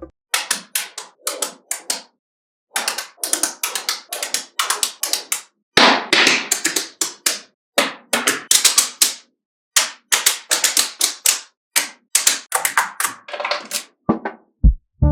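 Small magnetic balls clicking and clattering together in quick irregular runs with brief pauses, as spheres are snapped into place and rolled against each other.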